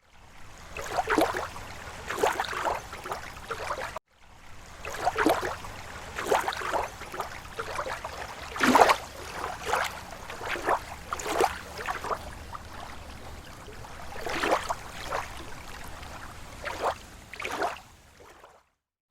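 Small waves lapping against a lake shore: irregular slaps and gurgles of water, each a second or less apart. The sound cuts out to silence for an instant about four seconds in and again near the end.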